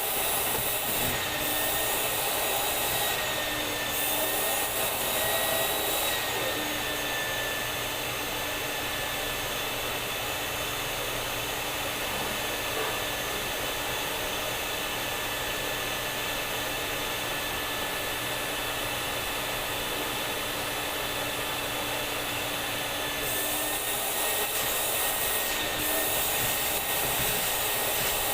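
Vacuum cleaner running: a steady motor whine with rushing airflow. The pitch dips slightly and the hiss softens about six seconds in, then rise back a few seconds before the end.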